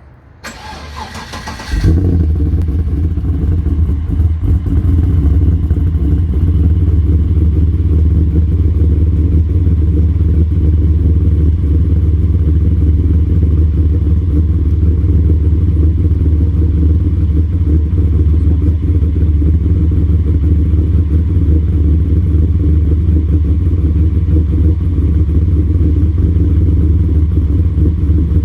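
LS1 V8 with a 238/247 duration, 112° lobe-separation camshaft, cold-started: the starter cranks for under two seconds, then the engine catches and runs at a loud, steady idle with a deep rumble.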